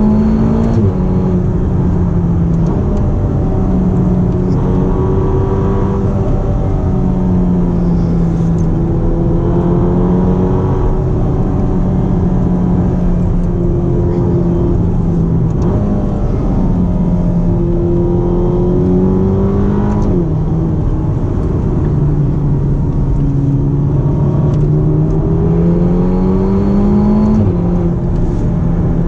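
Ferrari GTC4Lusso T's 3.9-litre twin-turbocharged V8 heard from inside the cabin while driven at speed, over steady road and tyre noise. Its note climbs slowly and drops back abruptly several times as it shifts through gears.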